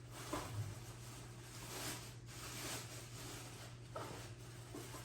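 Faint rustling and a few light knocks of household items being handled, over a steady low hum.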